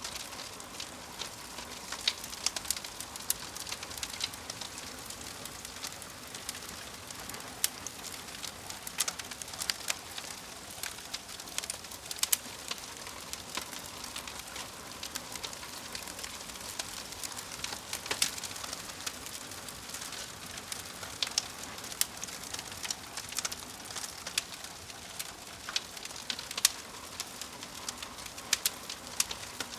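Log fire crackling: irregular sharp pops and snaps over a steady hiss of burning wood.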